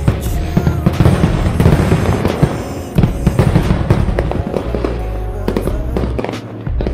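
Fireworks display going off: a dense, rapid string of booms and crackling bursts, easing briefly about three seconds in. Music plays underneath.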